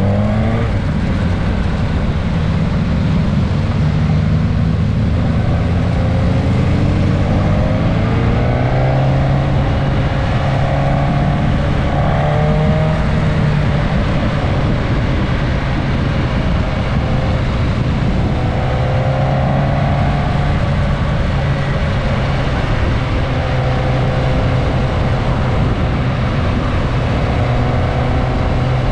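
Suzuki GSX-S 1000S Katana's inline-four engine under way, heard from a camera mounted on the bike. It pulls up through the revs in the first several seconds, then runs at steady cruising revs, with wind rushing over the microphone.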